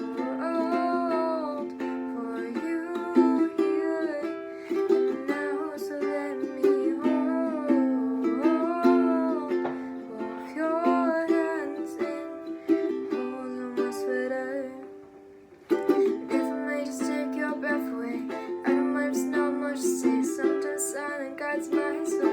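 Ukulele strummed in a small room, with a wordless sung melody gliding over the chords in the first half. The playing fades to a brief lull about fifteen seconds in, then the strumming starts again.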